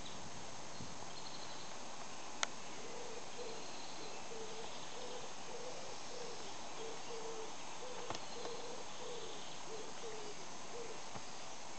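A bird calling in a long run of short, low, evenly repeated notes, about two a second, over a steady hiss. A sharp click comes about two and a half seconds in.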